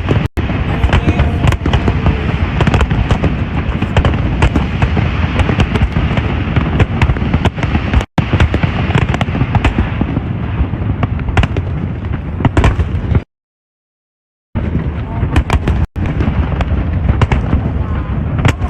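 Fireworks display: a dense run of bangs and crackling, with crowd voices underneath. The sound drops out briefly a few times, once for over a second.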